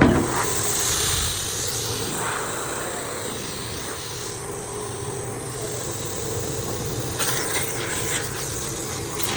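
Workshop machinery running with a low hum, broken by several bursts of hissing air.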